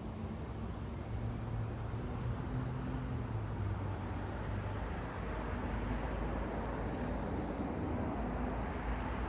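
City road traffic: cars and other vehicles running past, a steady wash of tyre and engine noise with a low engine hum, growing slightly louder in the second half.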